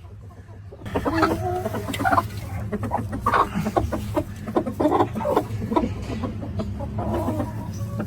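Aseel chickens clucking in short, repeated calls starting about a second in, mixed with many sharp taps, over a steady low hum.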